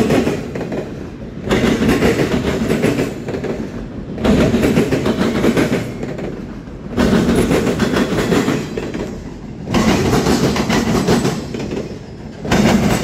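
Freight train rolling past, its wheel noise swelling and fading about every two and a half to three seconds as each car's trucks go by.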